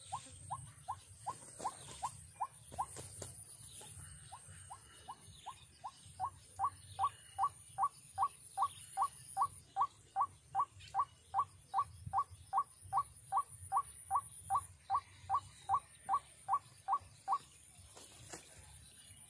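White-breasted waterhen calling: a long, regular series of short rising notes, about three a second. They break off briefly a few seconds in, come back louder, and stop shortly before the end.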